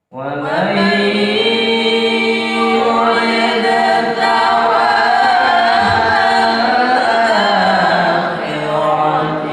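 Unaccompanied melodic Arabic chanting: long held, ornamented vocal notes in the style of tilawah (melodic Quran recitation), starting abruptly right at the beginning.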